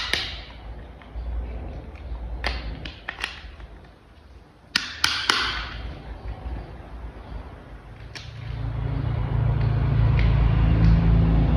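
Plastic toy vehicle parts clicking and knocking as they are handled and snapped together, several sharp clicks in the first half. About eight seconds in, a low, steady engine-like rumble starts and keeps going.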